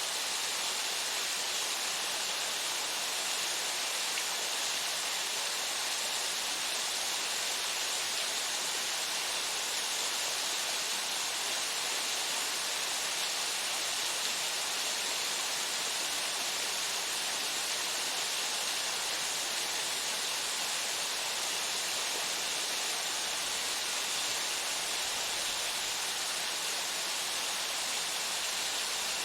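Waterfall: a steady, unbroken rush of falling water, bright and hissy rather than deep.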